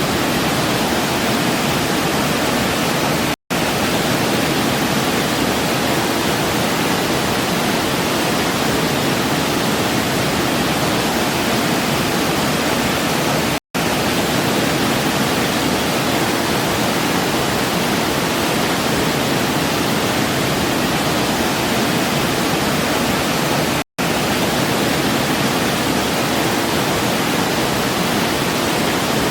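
Steady rushing of a waterfall, an even wash of falling water with no other sounds. It cuts out for an instant three times, about every ten seconds.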